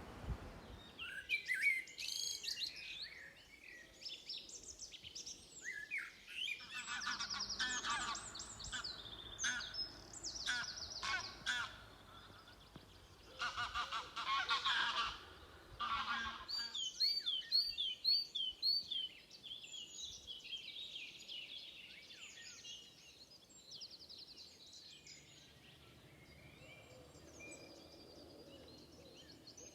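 Several songbirds singing in woodland, with overlapping high phrases of trills and rapidly repeated notes, and a series of quick slurred notes a little past the middle. The song thins out over the last several seconds.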